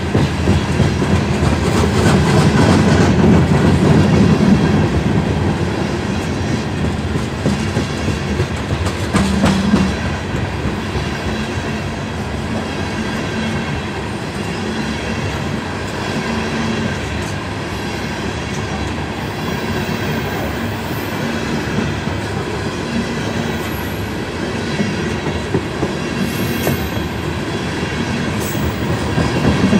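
Loaded aluminum open-hopper coal cars of a freight train rolling past, with a steady rumble of wheels on rail and clatter over the rail joints. It is louder for a few seconds near the start.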